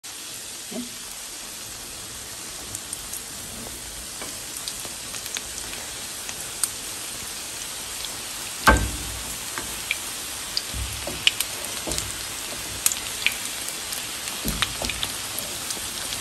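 Egg-battered pork rind patties sizzling and crackling in hot oil in a frying pan. There are a few dull knocks of spatulas against the pan as the patties are turned; the loudest comes about nine seconds in.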